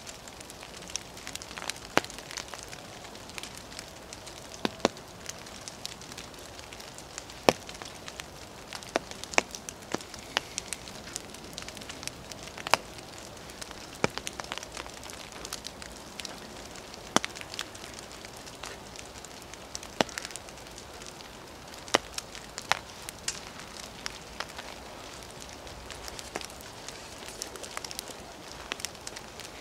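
Raindrops striking close to the microphone: sharp ticks at uneven intervals, a few much louder than the rest, over a steady light hiss of wet weather.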